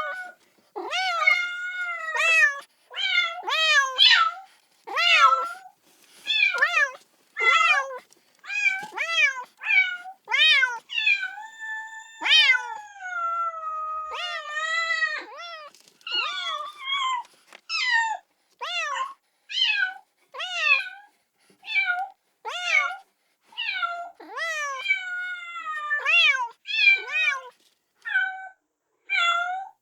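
Kitten meowing repeatedly, calling for its mother: high-pitched cries that rise and fall, about one to two a second, with one longer drawn-out call near the middle.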